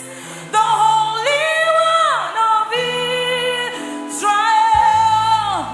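Slow gospel worship singing with several voices holding long notes that slide down at the ends of phrases, over a sustained keyboard pad.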